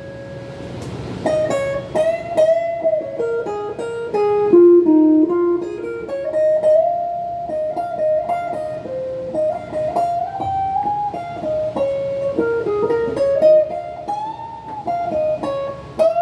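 Semi-hollow electric guitar, a Donner '72 Thinline-style clone, played through a small Peavey Backstage Plus amp: a single-note melodic lead that runs down and back up, with slides and a string bend near the end.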